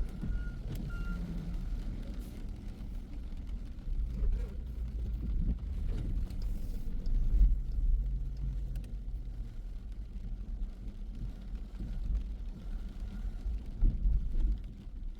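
Low, steady rumble of a car being driven, with the level swelling and easing. Two faint short beeps sound just after the start.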